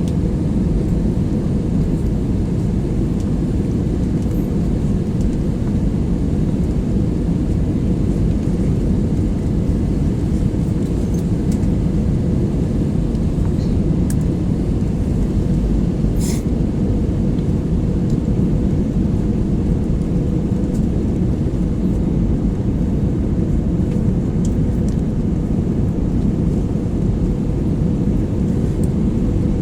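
Steady low rumble of engine and airflow noise inside the cabin of an Airbus A320 airliner, with a faint click about halfway through.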